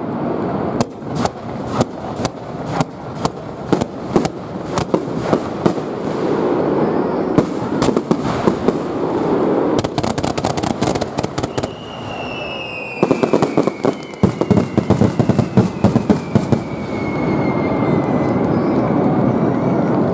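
Fireworks going off: a rapid run of sharp cracks and bangs over a continuous rumbling roar, with a whistle that slowly falls in pitch from about twelve seconds in.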